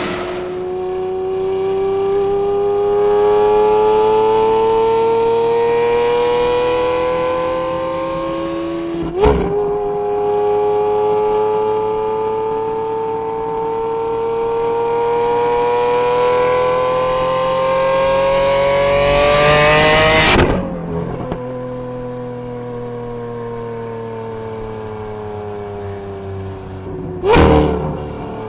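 Straight-piped 6.5-litre V12 of a Lamborghini Aventador SV through an aftermarket exhaust, pulling under steady acceleration with its pitch climbing slowly. There is a sharp break about nine seconds in, then it climbs again until it cuts off abruptly about twenty seconds in. The engine note then falls steadily as it slows, with a short loud burst near the end.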